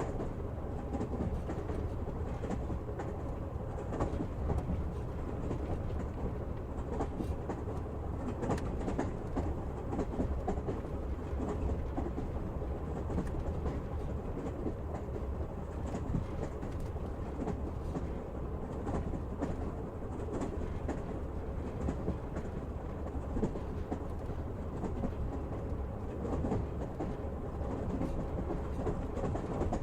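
Train carriage rolling along the track, heard from inside: a steady low rumble with an occasional clack of the wheels over the rails.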